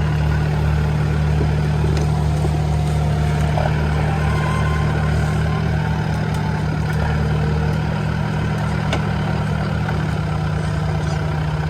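Kubota compact excavator's diesel engine running at a steady speed, a constant low hum with no revving.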